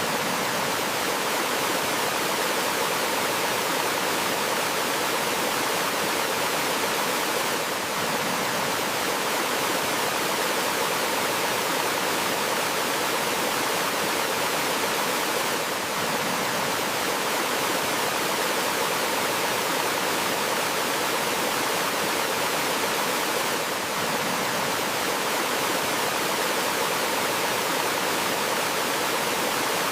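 Small forest waterfall: water pouring and rushing steadily as an even, full hiss without breaks.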